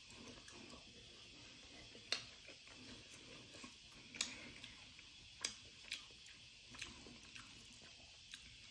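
Close-miked chewing of black-bean instant noodles: soft wet mouth sounds broken by about half a dozen sharp smacks and clicks, the loudest about two seconds in and around the middle.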